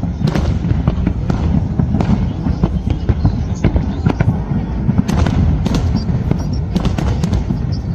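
Fireworks going off in rapid succession: many sharp bangs and crackles over a dense low rumble.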